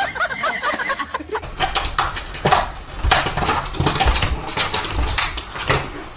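Short wavering animal calls in the first second, then an irregular run of knocks and clatter.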